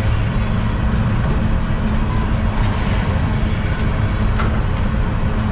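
CSX unit coal train rolling past, a loud steady rumble with an even hum underneath.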